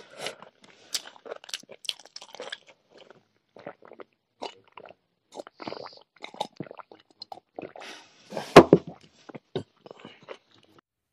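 Close-miked eating: a man chewing and crunching mouthfuls of rice and pork curry eaten by hand, in short irregular bites and smacks. One sharp, louder knock about three-quarters of the way through.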